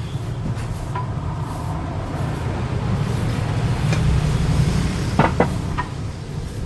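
A steady low mechanical hum, like a motor or engine running, with a few sharp clicks or knocks about five seconds in.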